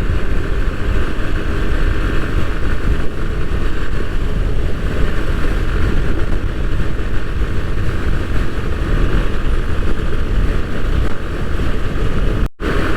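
Riding noise on a Bajaj Pulsar NS160 motorcycle at road speed: wind rushing over the microphone together with the bike's engine running, a steady heavy rumble. It cuts out briefly near the end.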